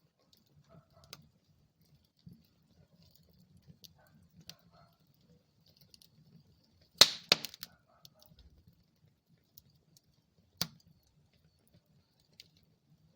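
Wood fire crackling in a fireplace: scattered small pops, a loud cluster of sharp cracks about seven seconds in and another single pop a few seconds later, over a faint low rumble of the flames.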